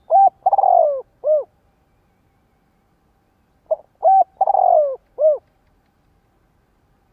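Spotted dove cooing: two phrases about three and a half seconds apart, each a couple of short coos, a longer falling coo, then a last short coo.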